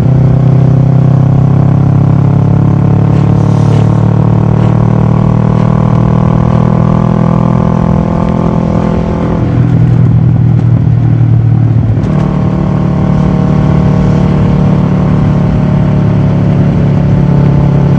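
Kawasaki ER6-F parallel-twin engine running through a full Akrapovic exhaust, heard from a camera mounted on the bike while riding. Its pitch sinks slowly for the first several seconds and dips briefly about nine seconds in. The note shifts abruptly around twelve seconds, then holds steady.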